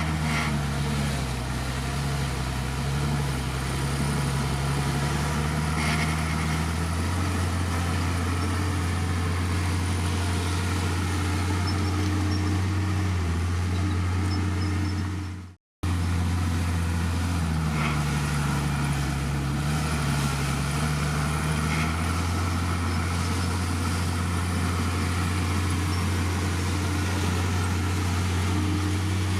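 Komatsu D51PX bulldozer's diesel engine running steadily, its pitch dipping and recovering twice. The sound cuts out for a moment about halfway through.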